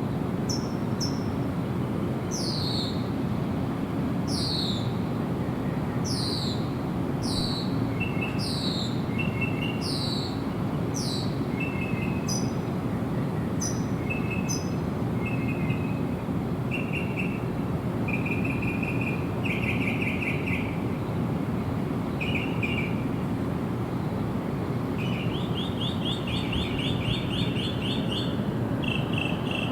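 Wild birds singing: a run of short, high whistles that each fall in pitch, repeated about twice a second for the first dozen seconds, then short trilled phrases for the rest, over a steady low rushing background.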